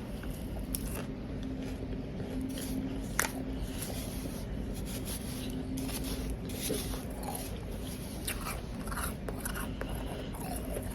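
Close-up chewing of powdery ice: a steady run of small, soft crunches, with one sharper crack about three seconds in.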